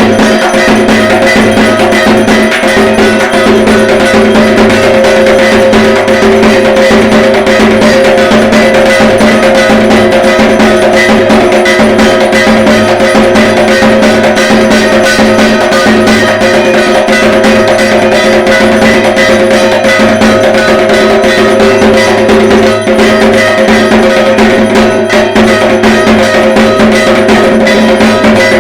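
Dhak, the Bengali barrel drum of Durga Puja, beaten with sticks in a fast, continuous rhythm of dense strokes over a steady ringing tone.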